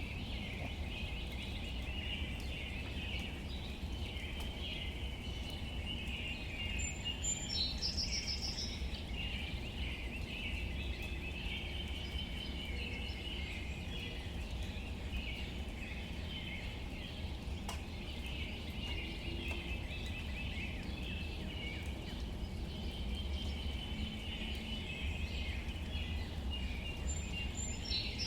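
Soft rain falling steadily on leaves, with a continuous high chirring chatter underneath. A brief, higher bird call comes twice, about eight seconds in and again near the end.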